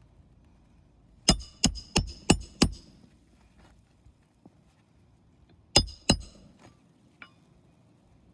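Hammer driving roofing nails into shingles: five quick strikes with a metallic ring, then two more strikes a few seconds later.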